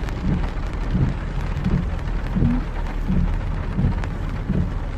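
Heavy rain pouring, a dense steady hiss, with low dull thumps recurring about every two-thirds of a second.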